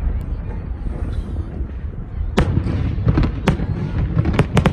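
Fireworks bursting over a steady low rumble: one sharp bang about halfway through, then a quick run of several cracks near the end.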